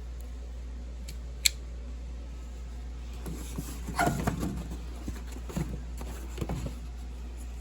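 Steady low hum, with one sharp click about a second and a half in, then a few seconds of irregular knocking and rattling from furnace parts or tools being handled.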